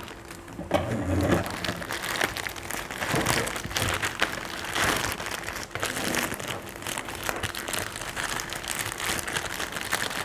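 Packaging crinkling and rustling as a washing machine's hose is handled and unwrapped from its accessory packet, an irregular run of crackles.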